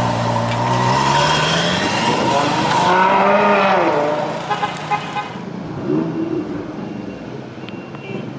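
A supercar's engine revving, its pitch climbing and then arching down as the car drives past, fading after about four seconds.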